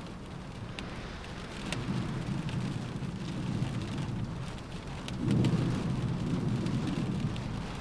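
Rain pattering on a window with scattered sharp drop ticks, under a deep rumble that swells up about two seconds in and again, louder, a little past the five-second mark.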